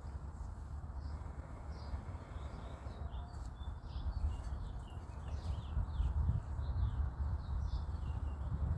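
Small birds chirping again and again, thickest from about three seconds in, over a steady low rumble that grows louder in the second half.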